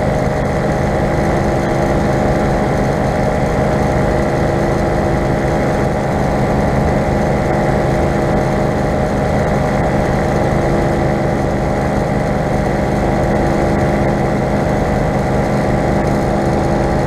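Four-stroke paramotor engine running steadily at constant throttle, its pitch unchanging.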